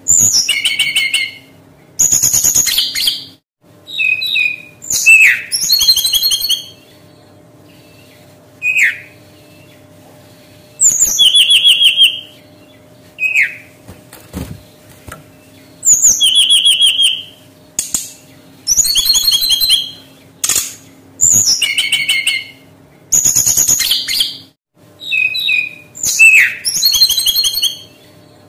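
Brown-chested jungle flycatcher singing: short phrases of clear, high notes, some sliding down in pitch, repeated every couple of seconds with brief pauses between them.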